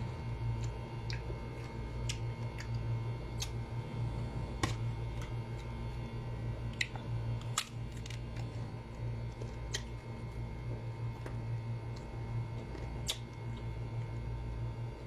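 Biting and chewing slices of raw green mango: scattered sharp, crisp clicks about once a second or so, over a steady low hum.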